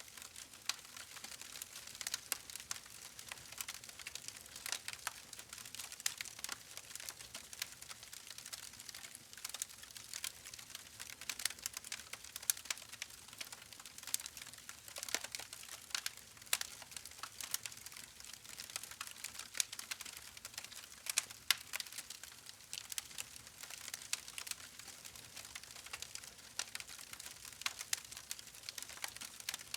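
Campfire burning with a steady crackle: irregular sharp pops and snaps of burning wood over a soft hiss.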